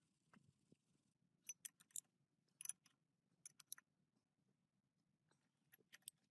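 Small groups of light, sharp clicks and taps over a faint low hum, near silence otherwise.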